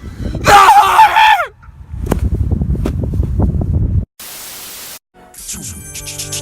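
A loud, wavering cry, then a rough rumbling clatter. About four seconds in comes a second of static hiss, and near the end music starts.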